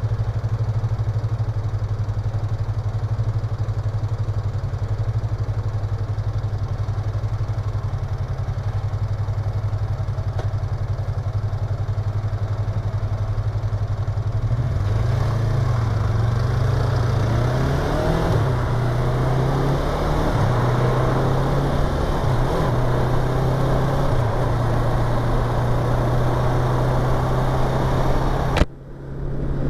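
Yamaha YZF-R25's parallel-twin engine, heard through a microphone inside the rider's helmet, holds a steady idle for about the first half, then pulls away and revs up through the gears while wind noise rises. A sharp click and a brief drop in sound come just before the end.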